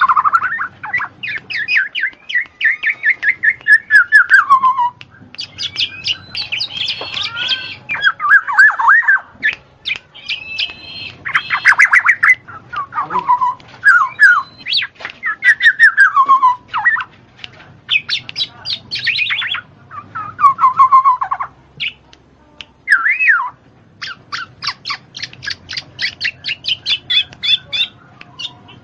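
Birds calling and squawking: rapid series of chirps and warbling, gliding calls that come in bursts with short pauses between them.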